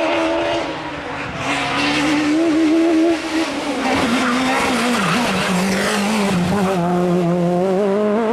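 Rally kit car engine at high revs, its note dipping briefly about a second in, climbing again, then dropping sharply at about three seconds as the driver changes gear or lifts, before wavering and holding fairly steady.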